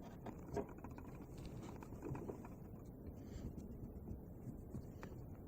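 Quiet handling noises: a few faint, light clicks and taps, about half a second in and again around two seconds and five seconds, over a low steady background.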